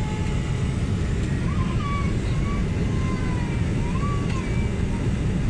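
Steady low rumble of a jet airliner heard from inside the cabin, with faint short gliding tones above it.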